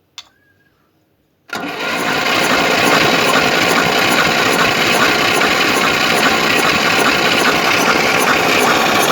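A click, then the starter cranking a Moskvich 2140's UZAM inline-four steadily for several seconds, with a homemade pressure gauge screwed into one spark-plug hole to read that cylinder's compression. The engine has a loud knock, its starter turns it over heavily, and cylinder pressures are uneven.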